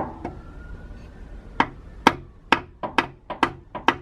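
Hammer blows on metal parts of an International DT466E diesel engine during teardown. There is a strike at the start, then after a pause a run of about nine sharp, ringing blows that speed up toward the end, knocking a stuck part loose.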